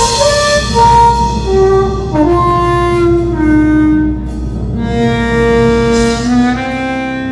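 Harmonica played into a cupped handheld microphone: a melodic line of sustained notes stepping downward, settling on a long held low note that begins to fade near the end.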